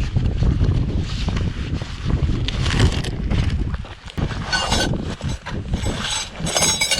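Wind buffeting the microphone as a heavy low rumble, with crunching and rustling noises coming and going several times.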